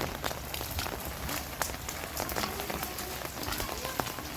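Steady heavy rain falling, with many separate drops striking close by as sharp ticks over the even hiss of the downpour.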